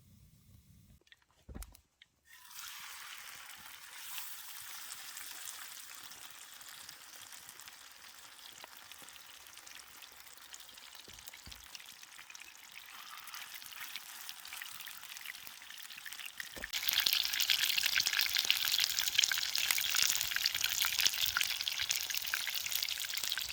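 Sausages sizzling over a campfire: a steady crackling hiss that starts about two seconds in and gets much louder about two-thirds of the way through.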